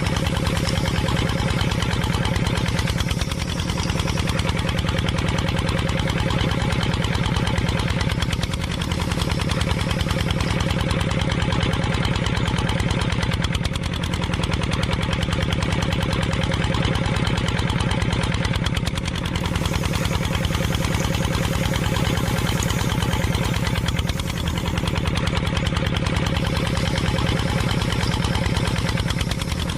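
An engine running steadily with a fast, even knocking pulse and a slight dip in level every few seconds.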